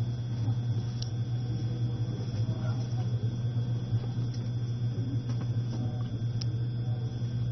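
Steady low hum inside the cabin of an E653 series electric train running at low speed, with a thin constant high tone over it. Faint voices come and go in the background.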